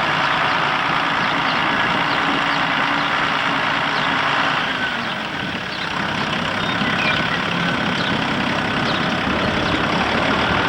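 Steady engine and road noise of a vehicle being driven slowly around a farmyard.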